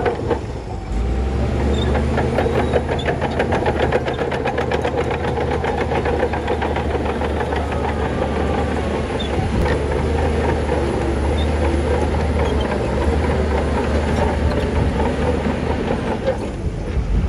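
Heavy diesel earthmoving machinery running steadily with a dense rapid clatter, the engine dropping briefly just after the start and again near the end.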